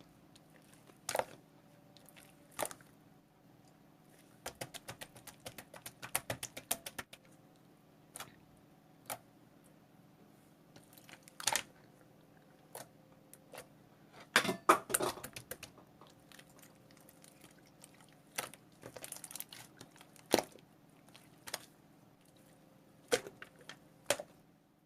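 Irregular sharp clicks and taps, some in quick runs and a louder cluster in the middle, over a faint steady hum.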